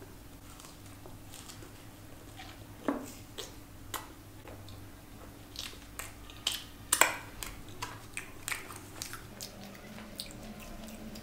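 Close-up chewing and biting as a dahi puri and then a samosa are eaten: irregular crunches and sharp mouth clicks, the loudest bite about seven seconds in.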